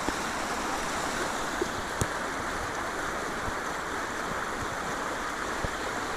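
Fast-flowing river water rushing steadily, with a few faint knocks, the clearest about two seconds in.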